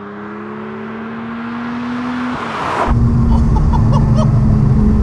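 A sports car's engine approaching and passing close by, growing steadily louder with its note rising slightly. About three seconds in, this changes abruptly to the loud, steady note of the Ruf SCR's 4.2-litre naturally aspirated engine heard from inside the cabin under hard throttle.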